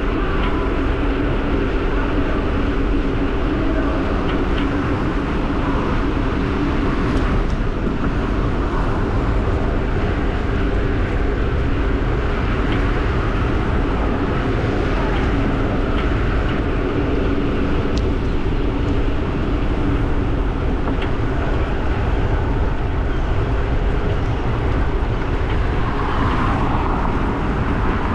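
Wind rushing over the camera's microphone with steady rolling noise while riding an e-bike along a trail.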